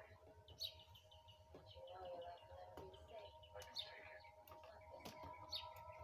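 Faint bird chirps: short high calls every second or two, over faint steady held tones and a few light clicks.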